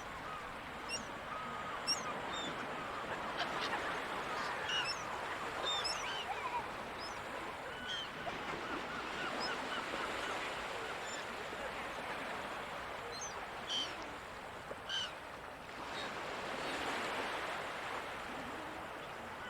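Gulls calling over the sea, many short cries scattered throughout, a couple of louder ones about three-quarters of the way in, over a steady wash of surf that swells near the end.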